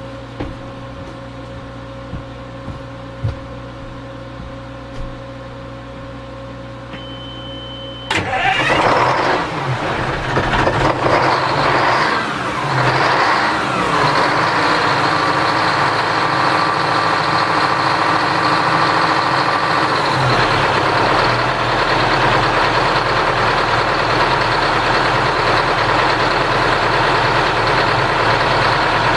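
Detroit Diesel 8V71 two-stroke V8 marine diesel starting cold. After a low steady hum and a brief high tone, the engine fires suddenly about eight seconds in, runs unevenly with rising and falling revs for several seconds, then settles into a steady idle.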